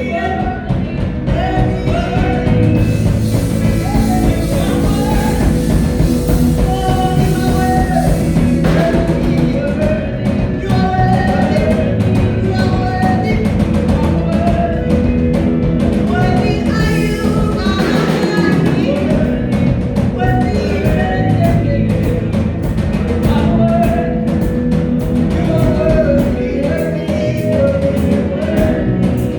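Live worship band and singers performing a gospel praise song over a steady drum beat.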